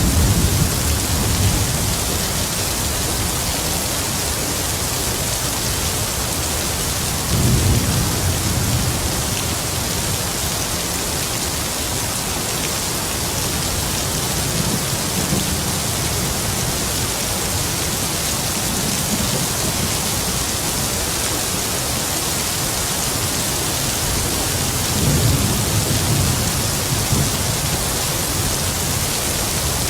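Heavy rain falling with a steady hiss, with distant thunder rolling in low rumbles at the start, about seven seconds in, and again near the end.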